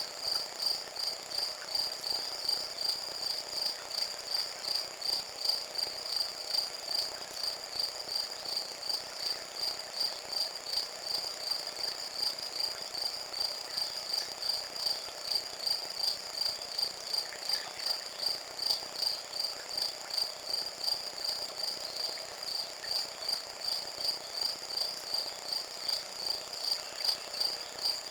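Crickets chirping steadily, an even high-pitched pulsing of about two to three chirps a second.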